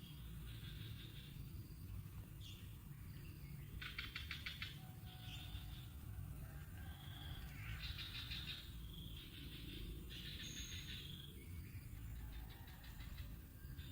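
Bird calls: short bursts of rapid, buzzy chirping, repeated every second or two, over a steady low rumble.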